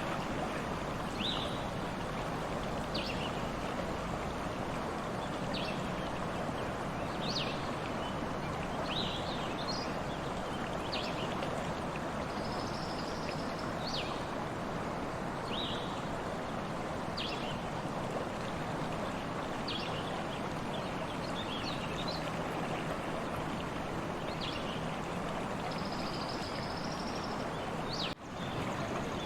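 Stream water running steadily, with birds giving short chirps about every second or two. The sound drops out for a moment near the end.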